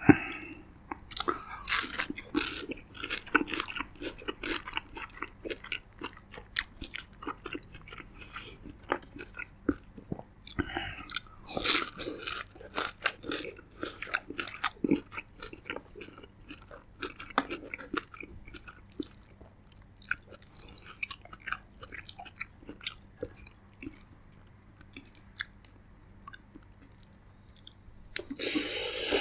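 A person chewing and biting food close to the microphone: irregular wet mouth clicks and smacks, with a louder rush of noise about a second long near the end.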